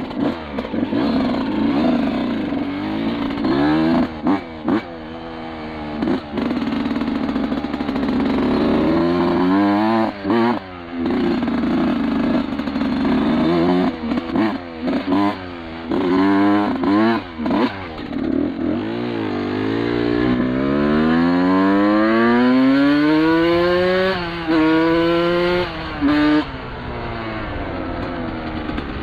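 1991 Suzuki RM125's two-stroke engine being ridden hard, the revs rising and falling with brief breaks off the throttle and a long climb in pitch near the end. The engine runs clean again; cheap premix oil had been making it run badly.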